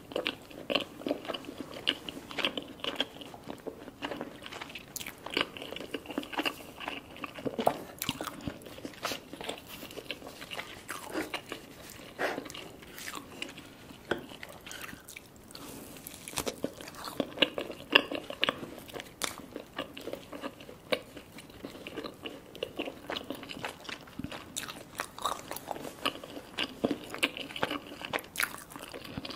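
Close-miked eating: chewing and biting of curry and garlic naan dipped in sauce, with many short, irregular wet mouth clicks.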